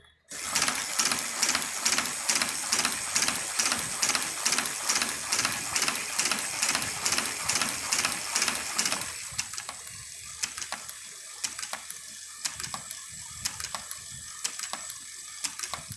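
Freshly rebuilt Chinese shoe patcher, a hand-cranked leather sewing machine, running with a steady mechanical clatter of about three strokes a second. It is louder for the first nine seconds or so, then carries on more quietly at the same pace.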